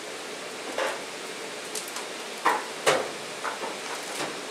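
Maple sap boiling hard in a wood-fired evaporator pan, a steady hiss, broken by several sharp clinks and knocks, the loudest near the middle.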